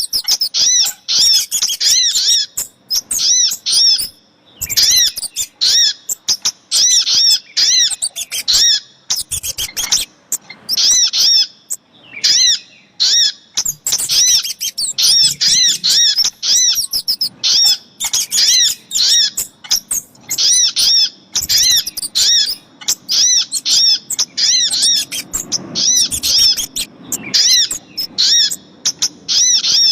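Bird-lure recording of little spiderhunter (sogok ontong) calls layered with kemade calls: dense, high-pitched chirps repeating several times a second almost without pause, with short breaks about 4 and 12 seconds in.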